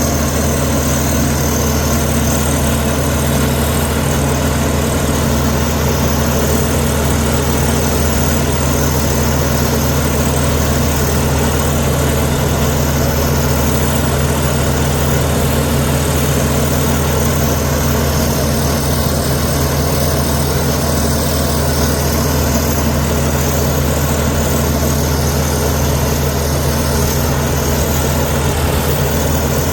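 Heavy diesel engine of earthmoving machinery running at a steady, even speed, with no revving or change in load.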